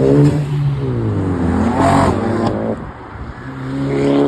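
Car engine revving as cars accelerate away, the engine pitch dropping after the first rev and climbing again near the end, with a short harsh burst about two seconds in.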